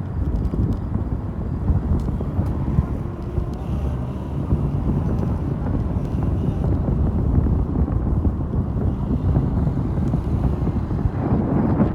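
Mondial Fury motorcycle engine running on the move, mixed with heavy wind buffeting on the microphone; the engine note swells briefly near the end.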